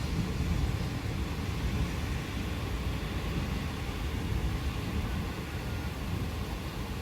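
Steady rain hiss under a low rolling rumble of distant thunder, which is a little stronger in the first second and then settles into a continuous low rumble.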